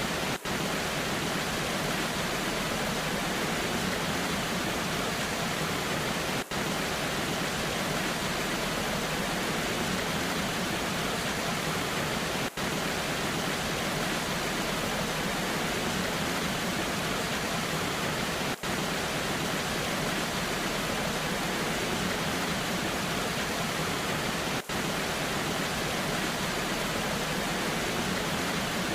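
Waterfall in the rain: a steady, even rush of falling water, with a brief dip in level about every six seconds.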